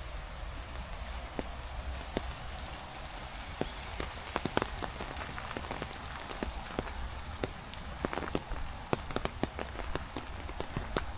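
Heavy rain falling steadily as an even hiss, with many sharp close drop impacts that come thicker from about four seconds in.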